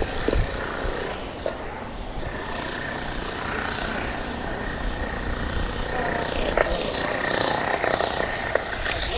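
Riding noise from a moving e-bike: wind buffeting the microphone with a few light knocks, and a steady high whine that comes in about two seconds in.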